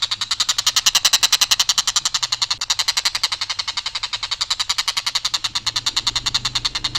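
A tengkek buto kingfisher giving its long, rough rattling call: a fast, unbroken string of harsh notes at about a dozen a second, held without variation.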